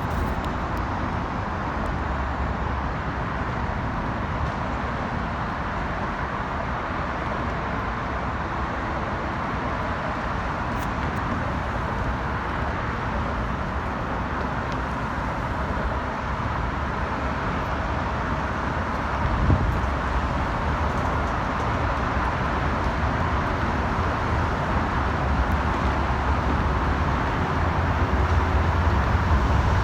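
Steady road traffic noise, an even wash of passing vehicles, with a brief low thump partway through and a low rumble that grows louder near the end.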